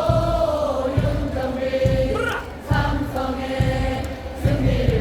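Baseball stadium crowd singing a cheering chant in unison, with low drum beats under the singing.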